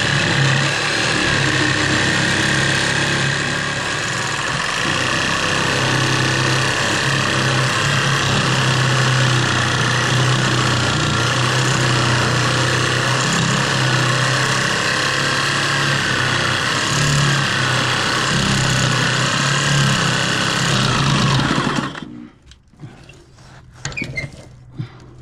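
Power tool cutting through a rusted bolt, running steadily with a wavering high whine, then cutting off sharply near the end, followed by a few light clicks.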